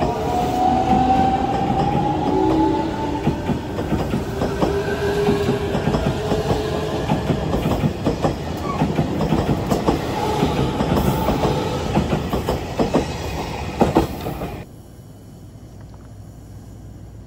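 Electric commuter trains moving past a station platform: wheels clicking over rail joints and a motor whine that glides in pitch. About 15 seconds in, the sound cuts abruptly to a much quieter steady hum.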